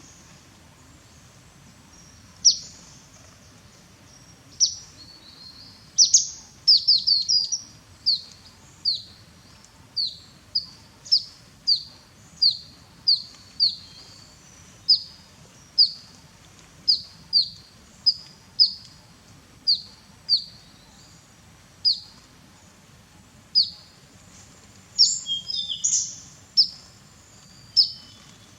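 A small bird calling with short, high, downward-slurred chirps, repeated about once or twice a second. There is a quick run of several notes about six to seven seconds in, and a tangle of notes around twenty-five seconds in, over a faint steady background noise.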